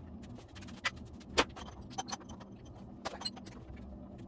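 A few sharp, irregular metal clicks and clinks as a harmonic balancer puller and its bolts are handled and fitted to the crankshaft damper of a 5.3-litre V8.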